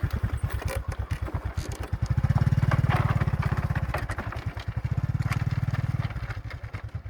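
Motorbike engine running at low speed with an even pulse, getting louder about two seconds in and easing off around six seconds in, as the bike is ridden down a steep dirt path.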